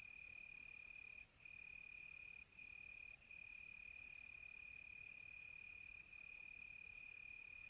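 Crickets trilling in one steady, continuous high-pitched tone, faint, broken by a few brief dips in the first few seconds.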